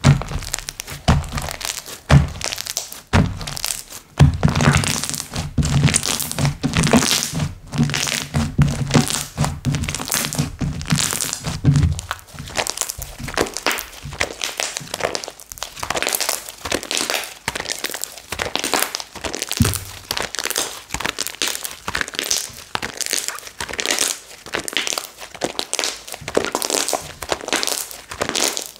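Hands squishing and pressing slime, giving a dense stream of sharp clicks and crackles, with heavier low thuds between about four and twelve seconds in.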